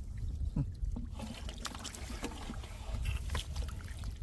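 Water sloshing and splashing in a shallow, muddy rice-field pool, with scattered short splashes over a low rumble.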